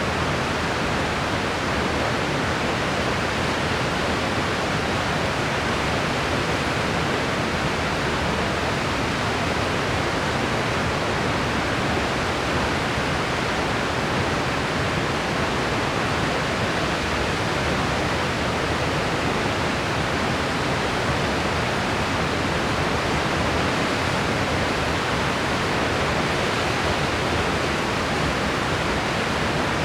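Steady white noise: an even hiss that holds without any change, pattern or break.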